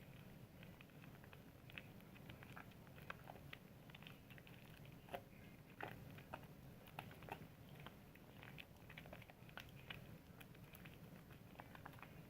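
Soap being lathered: faint, irregular wet clicks and squishes of soap and suds.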